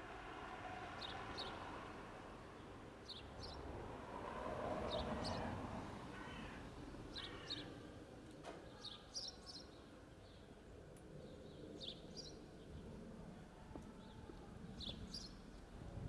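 Small birds chirping in short, repeated calls over faint outdoor background noise.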